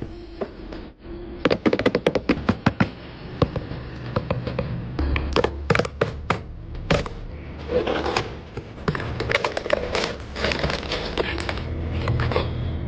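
Packaging being handled and opened by hand: irregular sharp taps and clicks, several in quick runs, with rustling in between.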